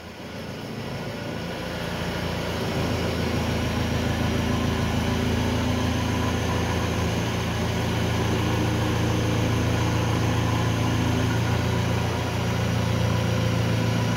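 Mahindra Roxor's 2.5-litre turbodiesel engine running steadily, growing louder over the first few seconds and then holding, with a brief dip near the end.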